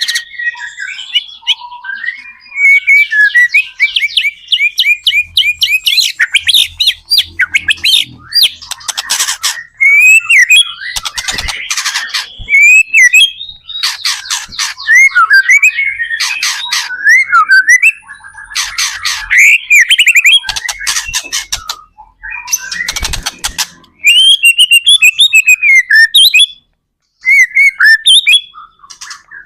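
White-rumped shama (murai batu) in full song: loud, fast, varied phrases of gliding whistles and rapid rattling trills, separated by short pauses.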